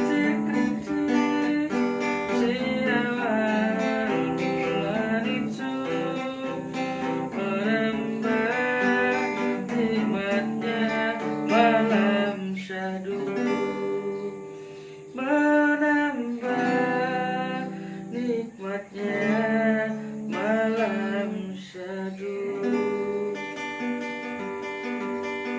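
A voice singing over an acoustic guitar that is plucked and strummed, with a brief drop in level about two thirds of the way through.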